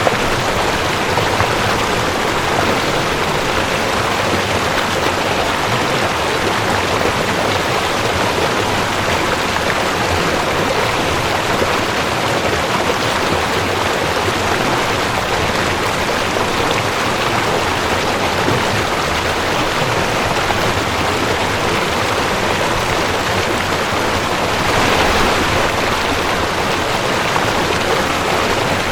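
Mountain stream rushing over rocks: a steady, dense wash of water noise, swelling slightly about 25 seconds in.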